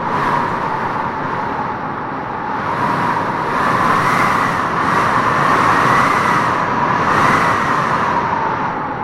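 Howling wind gusting through trees: a continuous rush with a wavering, whistling howl that swells louder toward the middle and eases off near the end.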